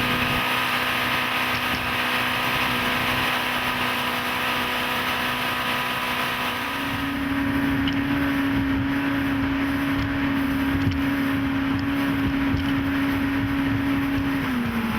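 A 1991 Evinrude 90 HP V4 two-stroke outboard running steadily as the boat cruises on the water. About halfway through, the engine note steps slightly higher and louder, and it drops again near the end.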